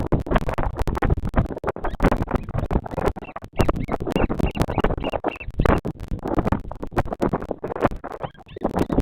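Dense, loud crackling and rustling noise at a nest camera's microphone. A few short high peeps come through in the middle and again near the end.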